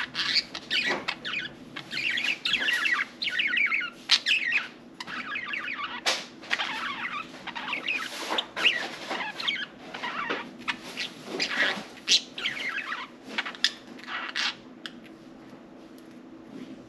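Budgerigars chattering and warbling in quick, wavering twitters, with frequent sharp clicks scattered through it. The chatter thins out near the end. A faint steady hum lies underneath.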